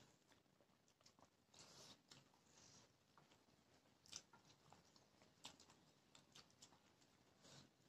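Faint chewing and eating sounds, with scattered soft clicks and crunches.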